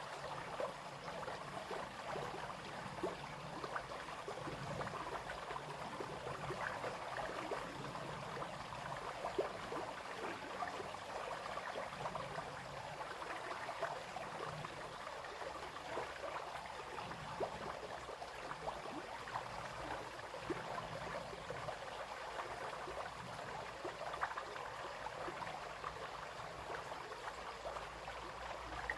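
Small brook flowing steadily, the water splashing and trickling over stones with many small splashes.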